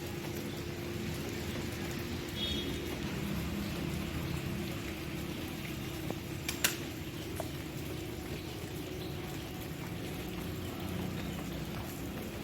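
Steady patter of falling rain, with one sharp tick about six and a half seconds in.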